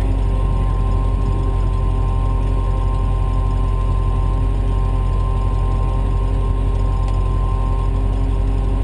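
A vehicle engine idling steadily: a constant low rumble with a fixed hum that does not change.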